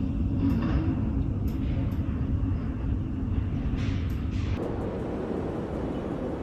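Strong storm wind roaring and buffeting the microphone, with a few faint clatters. About four and a half seconds in, the sound changes abruptly to a thinner, steadier hiss.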